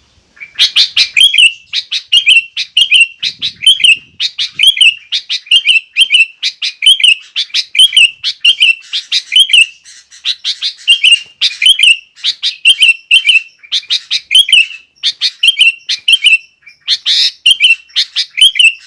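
Sooty-headed bulbul singing hard: a loud, unbroken string of short, quick chattering phrases, repeated nearly twice a second.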